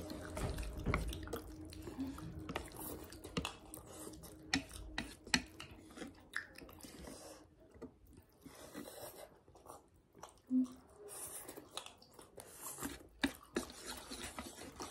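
Close-up eating sounds of noodles: wet chewing, slurping and mouth smacks, with many small clicks and taps scattered throughout.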